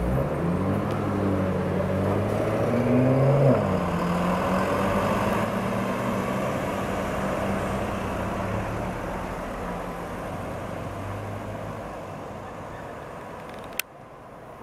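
BMW M5 F10's twin-turbo V8 through an Akrapovic exhaust pulling away: the revs climb for about three seconds, drop at an upshift, then the engine note fades steadily as the car drives off. A single sharp click near the end.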